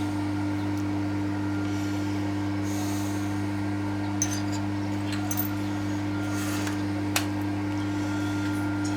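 Steady low electrical hum, with a few light clicks of small parts or tools being handled in the second half.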